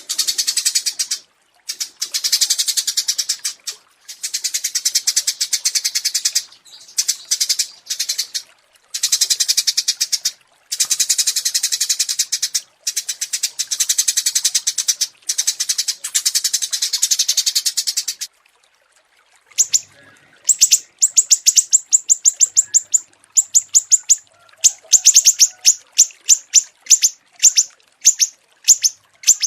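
Small songbirds singing: long, very fast trilled phrases for about the first two thirds, then a short pause, then quick runs of sharp, high, separate chirps.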